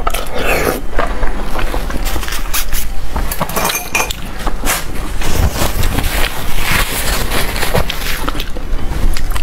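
Crunchy food being chewed close to a clip-on microphone: a dense, irregular run of sharp crackling crunches.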